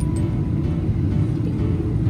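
Steady low rumble of a moving vehicle heard from inside.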